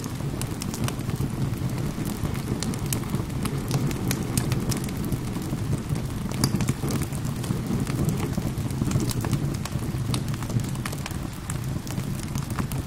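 Rain falling steadily with a low rumble, layered with a wood fire crackling in many sharp pops.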